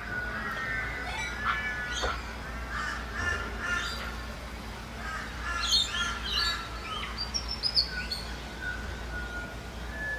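Several wild birds calling: a dense run of short, harsh calls mixed with higher chirps and whistles, over a steady low rumble.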